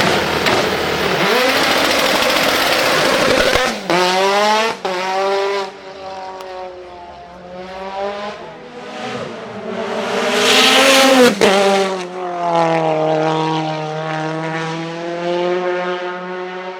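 Mitsubishi Lancer Evolution IX's turbocharged 2.3-litre 4G63 stroker four-cylinder at full throttle. The engine revs climb and drop back at each gear change as the car accelerates. It is loudest as the car passes close at the start and again about ten seconds in.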